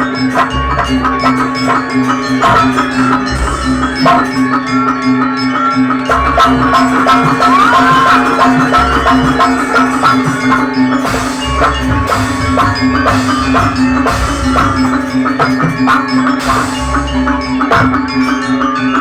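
Live traditional Banyuwangi ensemble music: mallet-struck percussion plays a busy run of notes over drums, with a steady held low tone underneath.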